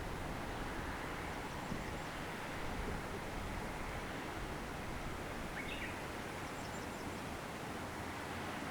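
Steady wind blowing across open countryside, a constant low rushing noise with some rumble on the microphone. A single short bird chirp a little past halfway.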